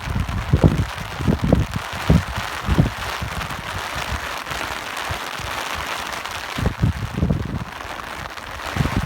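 Steady rain hiss, with gusts of wind buffeting the microphone in irregular low rumbling puffs during the first few seconds and again near the end.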